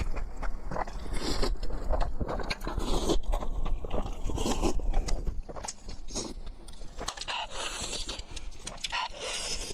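Close-up eating sounds: spicy instant noodles being slurped and chewed, with quick irregular wet smacks and clicks.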